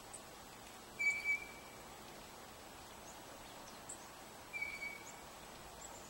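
A bird gives two short, even whistled notes about three and a half seconds apart, with a few faint high chips around them over steady outdoor hiss.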